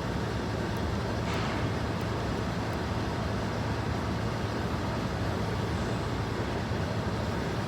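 Steady urban background noise with a low, even hum and no playing.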